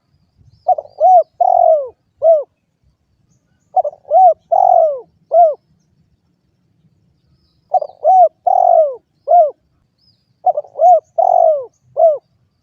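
A spotted dove (derkuku) cooing: four repeated phrases, each of about four short arched coos a little apart, with the phrases roughly three seconds apart.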